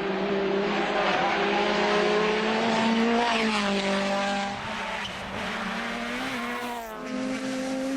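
Rally car engine at full load, its pitch climbing and dropping sharply at each gear change, over a steady rush of tyre and road noise. The note drops and recovers about three and a half seconds in, again around five seconds, and once more near seven seconds, and the sound is somewhat quieter after the middle.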